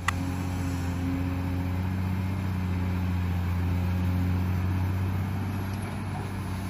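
Diesel engine of a large Caterpillar hydraulic excavator running at a steady, even pitch while it digs soil and swings its loaded bucket toward a dump truck.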